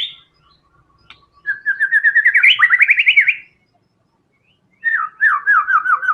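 White-rumped shama singing in loud rapid-fire bursts: two phrases of quickly repeated rising whistled notes, the first about a second and a half in and the second near the end.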